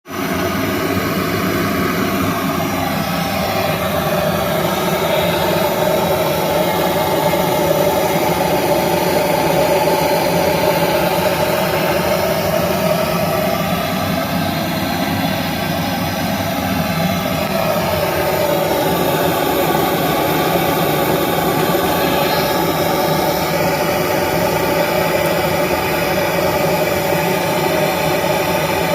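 A machine running steadily: a loud, continuous engine-like drone whose pitch drifts slowly up and down.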